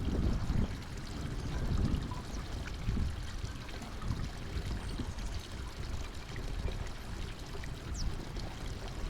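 Outdoor noise at the feeder: an uneven low rushing sound, with a few faint high chirps from small birds, one a little clearer near the end.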